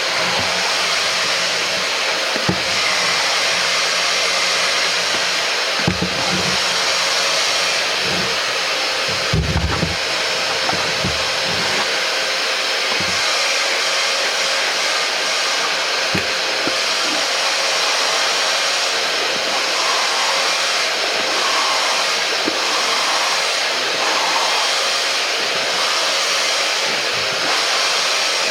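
Hoover Powerdash Go Pet portable carpet spot cleaner running steadily, a continuous motor-and-suction rush with a steady hum. Scattered low thuds come through it during roughly the first twelve seconds.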